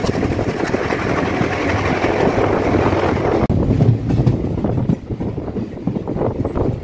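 Passenger express train running on broad-gauge track, wheels rolling over the rails, heard from an open coach doorway. About halfway through the sound turns duller, with less hiss.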